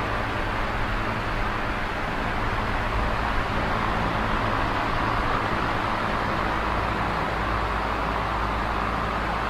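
Small oscillating electric fan running: a steady rush of air over a low, even motor hum.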